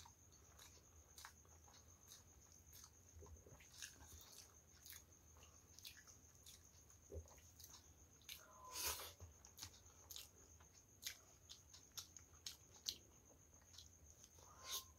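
Close-up mouth sounds of eating by hand: chewing, wet lip smacks and tongue clicks, with a louder bite about nine seconds in and another near the end.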